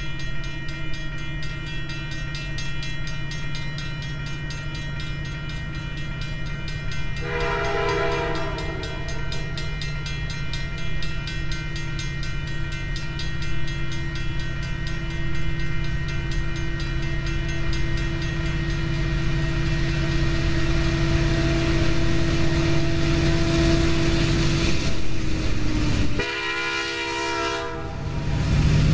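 A train approaching: its steady low engine drone underlies rail noise that grows louder over the second half. The locomotive horn sounds briefly about seven seconds in, then blasts loudly near the end as the train comes close.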